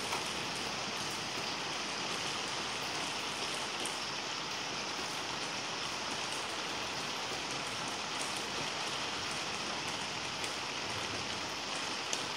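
Steady rain falling: an even hiss with a few sharp drop ticks scattered through it.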